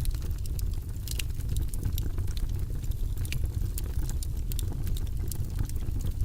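Wood fire burning in a fireplace: a steady low rumble of the flames with many quick, irregular crackles and pops from the logs.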